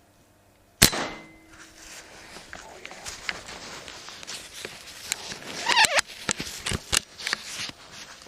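An air rifle shot about a second in, sharp and loud with a short ringing tail. Scattered clicks and rustling follow, with a brief squeal shortly before the six-second mark.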